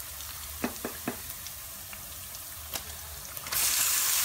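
Sliced onions frying in hot oil with a soft, steady sizzle and a few sharp clicks. About three and a half seconds in, raw chicken pieces go into the pan and the sizzle jumps suddenly much louder.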